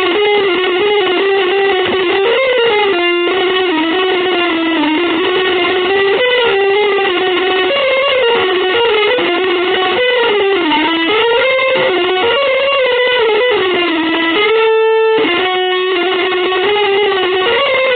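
Electric guitar improvising a sustained, singing melodic line in a free-jazz style, its held notes bending and gliding up and down in pitch.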